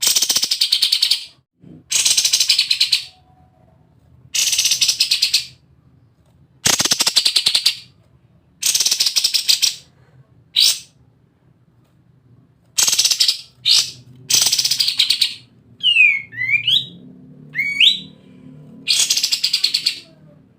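Kapas tembak bulbul giving its rapid, harsh rattling chatter ('ngebren') in about nine loud bursts of roughly a second each. Near the end, a few quick swooping whistles break in between the rattles.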